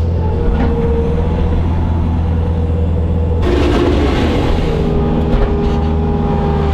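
Bobcat skid steer's diesel engine running steadily under the operator. About three and a half seconds in, a loud hissing rush joins it for a second or so, and the engine note shifts slightly soon after.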